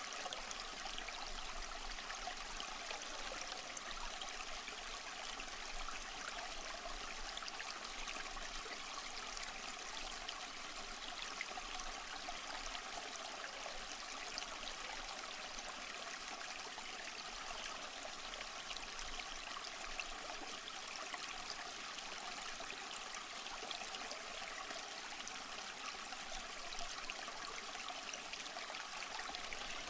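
A small stream flowing over rocks, a steady even rush and babble of water with no change.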